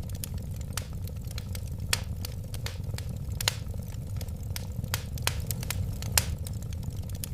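Wood fire burning in a fireplace: a steady low rumble of flames with irregular crackles and sharp pops of burning wood.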